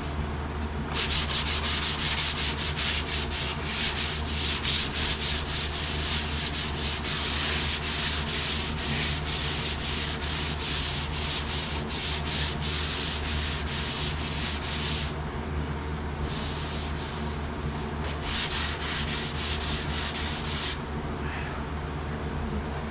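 Hand sanding a painted sheet-metal truck body panel: quick back-and-forth scraping strokes, stopping about two thirds of the way through and then resuming in two short bouts. Scuffing the paint shows up dents and low spots. A steady low hum runs underneath.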